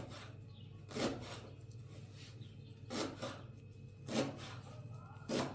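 Four short scraping strokes, irregularly spaced a second or two apart, over a steady low hum.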